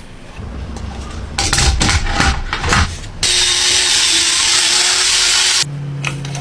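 Power tool work: a few clattering knocks, then a power tool runs loudly for about two and a half seconds and gives way to a lower, steadier hum.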